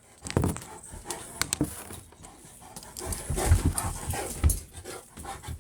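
A dog panting, with a few scattered clicks and knocks.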